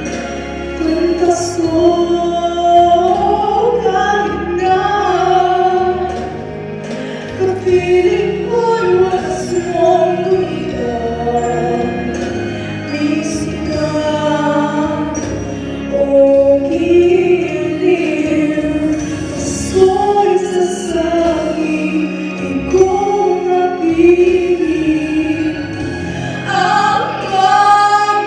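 A Christmas song with a choir of voices singing a melody over instrumental accompaniment.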